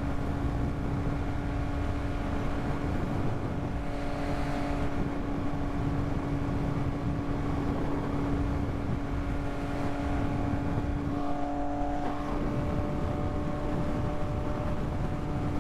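Yamaha MT-09 inline-three engine running steadily while riding at an even pace, with wind rushing underneath.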